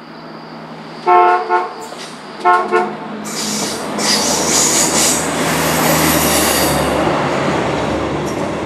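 A passenger multiple-unit train sounds its horn in two pairs of short blasts, then passes close by with a loud rush of wheel and running noise that swells and slowly fades.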